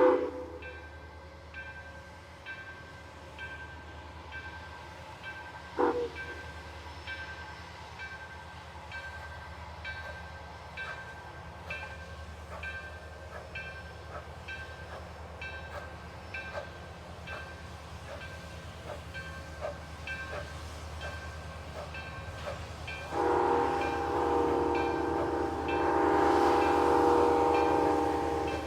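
Steam locomotive working slowly, with a steady rhythmic clicking of about one to two ticks a second and a short toot of the whistle about six seconds in. Near the end a loud, long multi-note whistle blast sounds over a hiss of steam.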